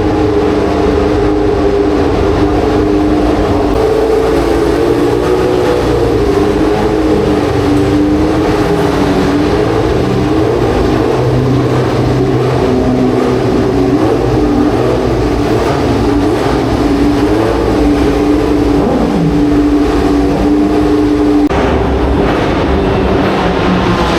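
Classic racing car engines running steadily at high revs, a loud continuous drone whose pitch wavers only slightly. The sound changes abruptly about 21 seconds in.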